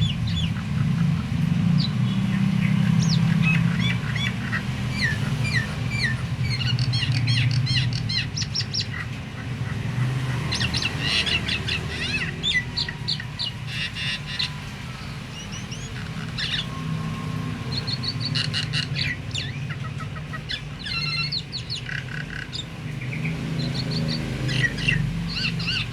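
Starling (jalak) song: a busy run of sharp chirps, whistles and chattering phrases, over a low steady hum. It is the kind of lure song used to get other starlings singing.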